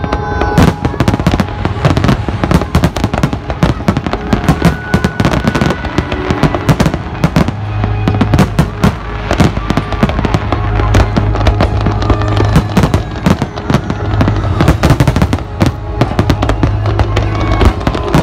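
Fireworks display: a dense, continuous barrage of shell bursts and crackling bangs, many a second, with no let-up.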